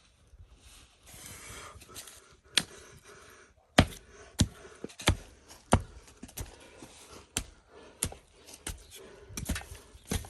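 A brief rustle, then a series of sharp knocks, irregular and roughly one to two a second.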